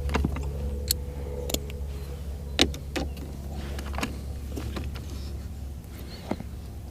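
Scattered sharp clicks and light knocks of hand tools and small remote-control parts being handled, about half a dozen spread irregularly, over a steady low hum.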